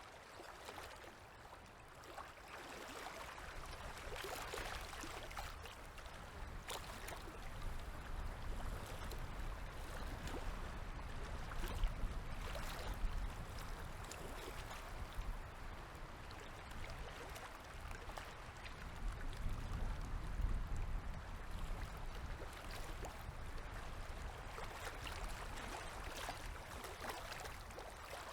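Small waves on a river lapping and splashing, an even wash of water full of small splashes that swells and eases in loudness.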